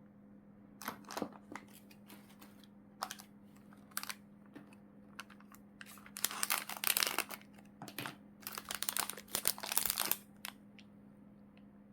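Plastic packaging crinkling and rustling as it is handled: scattered crackles at first, then two denser stretches of rustling in the second half.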